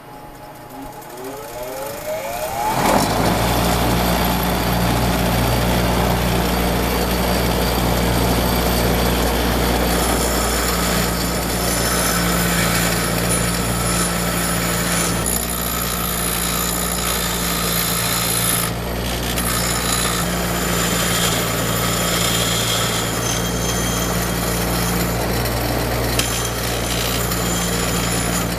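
Electric power tool in a restoration shop spinning up with a rising whine over the first few seconds, then running steadily with a low hum and a loud grinding noise that shifts now and then, as when rusty metal is worked on it.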